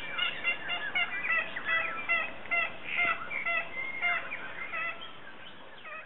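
Birds calling in a rapid run of short, repeated chirping notes, fading out near the end.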